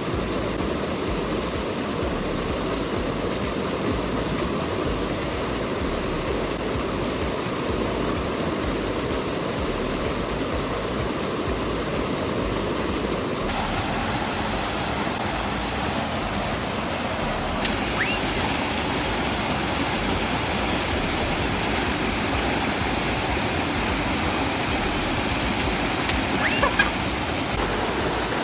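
Waterfall pouring into a rock pool: a steady, loud rush of falling and splashing water. A brief high chirp is heard about two-thirds of the way in and again near the end.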